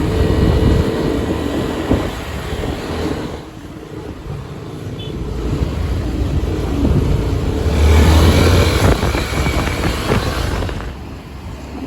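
Road vehicle noise: a motor vehicle running along the road with a low rumble that swells about eight seconds in, then eases off.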